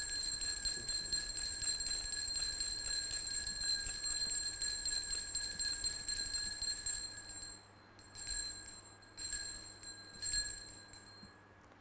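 Altar bells shaken in a rapid, continuous ring for about seven and a half seconds, then three short shakes before they stop. They mark the elevation of the host at the consecration of the Mass.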